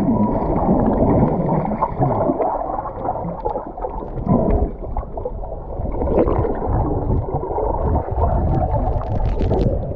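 Muffled underwater gurgling and bubbling of swimmers moving through the sea, heard from below the surface.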